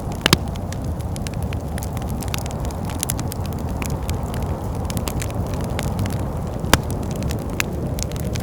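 Wood fire crackling in a fireplace, with many small sharp pops and two louder ones, one right at the start and one about two-thirds of the way through, over a steady low rush of wind.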